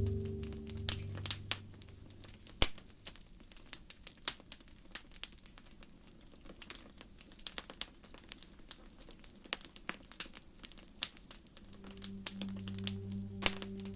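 Wood fire crackling, with irregular sharp pops and snaps, the strongest about two and a half seconds in. A soft piano fades out at the start and comes back in near the end.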